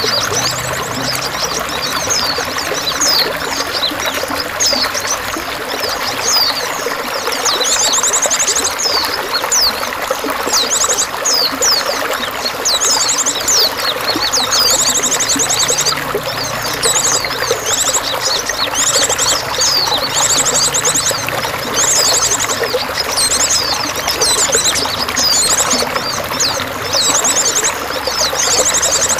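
Steady running, trickling water with songbirds chirping throughout, including repeated short, high, rapid trills every few seconds.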